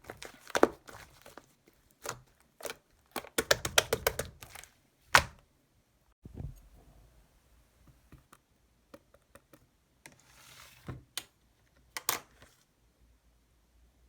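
Irregular handling noises of crafting by hand: crinkling, clicking and tapping, with a few sharper knocks, the loudest about five seconds in.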